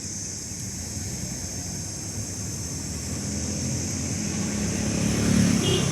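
A motor vehicle passing on the road, its engine and tyre noise growing gradually louder toward the end, over a steady high hiss.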